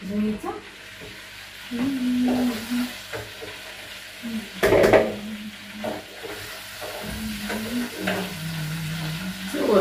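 Food sizzling as it fries in oil in a pan, with a brief clatter about five seconds in.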